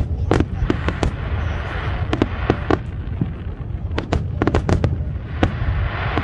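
Fireworks display: aerial shells bursting in a rapid, irregular run of sharp bangs, several a second, with stretches of crackling between them.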